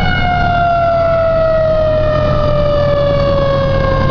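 Fire engine's siren winding down in one long, slow, falling tone, over the steady low rumble of the truck's engine.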